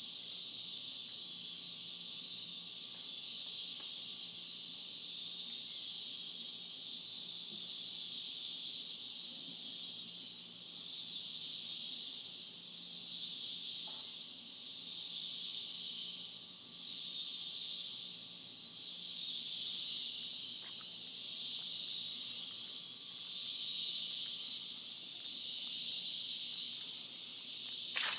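A dense, high-pitched insect chorus, steady at first, then swelling and fading in regular waves about every two seconds.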